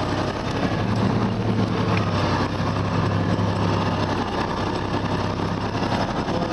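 Loaded timber truck's engine running steadily while driving, with a constant low hum.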